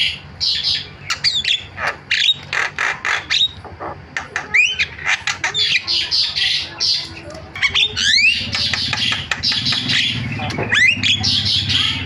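Javan myna singing a fast, chattering run of harsh squawks, clicks and quick rising whistles, the mixed, mimicry-filled song used to set other birds singing.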